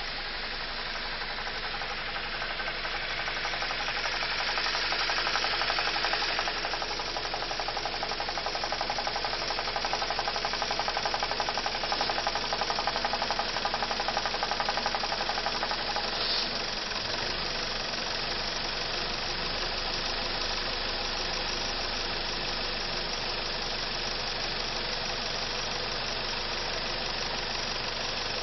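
BMW E46 316i's N42 four-cylinder petrol engine idling with a fast, clattering noise that the owner takes for a failing vacuum pump. About two-thirds of the way in the sound changes and turns quieter and smoother, as the vacuum pipe at the brake booster is unplugged or plugged back in.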